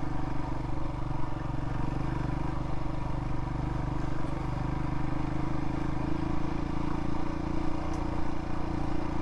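Royal Enfield Himalayan's single-cylinder engine running steadily while under way, with an even rush of wind and road noise over it.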